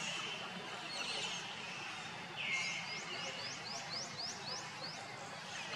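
A bird singing: a short buzzy note followed by a quick run of about nine rising chirps, about four a second. The phrase begins again near the end.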